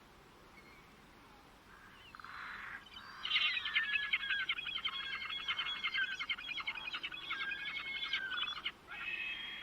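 A bird singing a long song of rapid repeated chattering notes that starts about two seconds in, breaks off briefly near the end, then starts another call.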